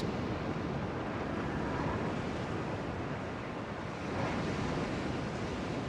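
Ocean surf washing onto a beach: a steady rushing hiss of waves with no distinct breaks.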